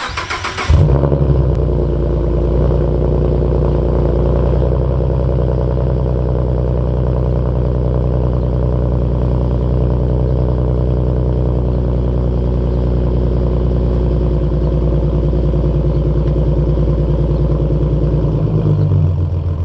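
Ford Mustang 3.7 L V6 with long-tube headers cold-starting: a brief crank, the engine catching with a loud flare, then settling into a steady idle through the new exhaust until it stops near the end.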